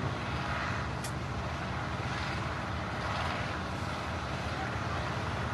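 Steady low rumble of a vehicle running, with a brief sharp click about a second in.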